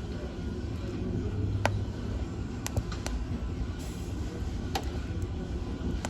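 Wood fire burning in a fireplace: a steady low rumble of flames with a few sharp crackles and pops from the burning logs.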